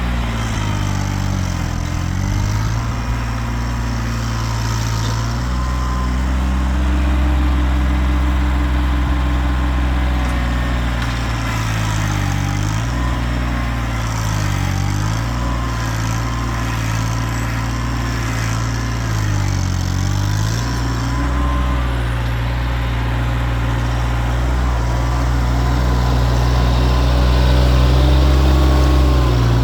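Kioti tractor's diesel engine running steadily. Its pitch dips briefly and recovers about four times.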